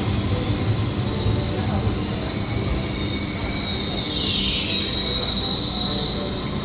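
Train running with its steel wheels giving a steady high-pitched squeal over a low rumble, and a second squeal sliding down in pitch about four seconds in.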